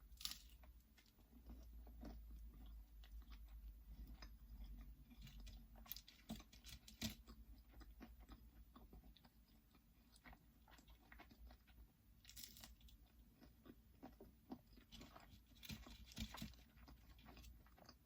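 Faint close-up eating sounds: a person chewing and biting food, with soft crunches and wet mouth clicks scattered through, a few louder bursts among them.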